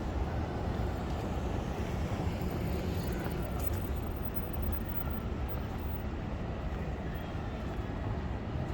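Steady low rumble of city street noise, mostly passing road traffic.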